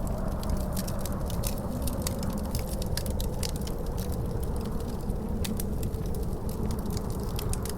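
Wood fire crackling in a fireplace, with many quick, irregular pops and snaps, over a steady low howl of wind.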